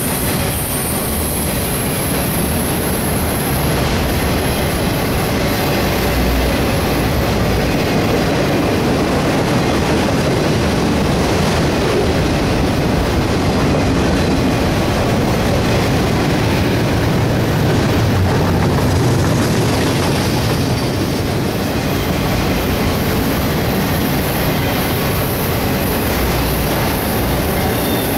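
Autorack freight cars of a CSX train rolling past close by at speed: a steady, loud rumble of steel wheels on the rails that holds without a break.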